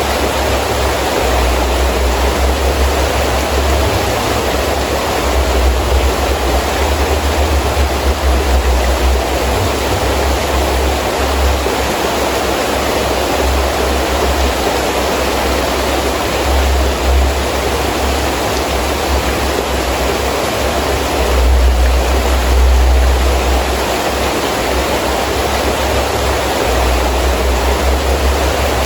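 Heavy rain falling steadily in a windy storm, a dense even hiss. Under it a deep wind rumble comes and goes in gusts, strongest about three-quarters of the way through.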